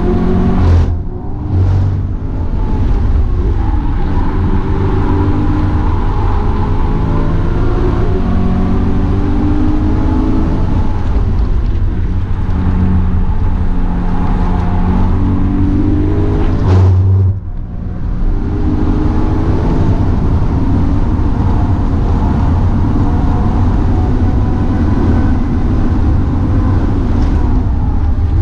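BMW E92 M3's 4.0-litre V8 heard from inside the cabin under hard track driving. Its pitch repeatedly climbs and falls as it revs and shifts, with a brief lift-off about a second in and another about 17 seconds in.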